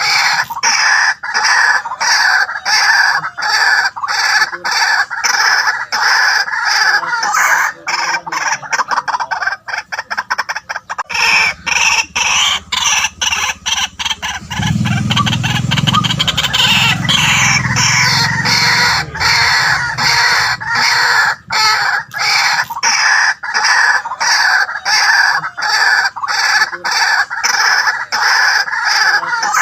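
White-breasted waterhen calling: a loud, unbroken run of harsh, rapidly repeated notes. A low rumble sits under the calls for several seconds in the middle.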